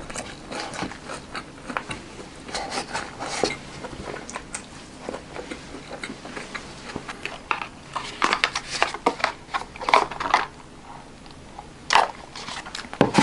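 Close-up eating sounds: crunchy chewing of a fried spring roll, with wooden chopsticks clicking and scraping against the plastic takeout container. The clicks and crunches come in uneven clusters, busiest a little past the middle and with a sharp one near the end.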